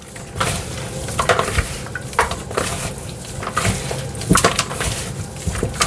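Seasoned food being mixed in a bowl, with irregular clicks and knocks of the bowl and utensil through the stirring.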